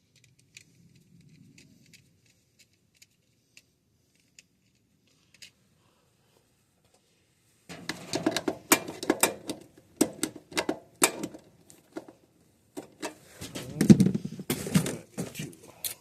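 Faint scattered ticks, then from about halfway through a loud run of metallic clicking and clattering, as tools and electrical parts are handled during the breaker swap.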